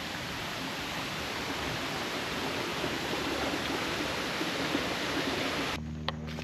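Steady hiss of rain falling on the rainforest. Near the end it cuts off abruptly, giving way to a low steady hum with a few sharp clicks.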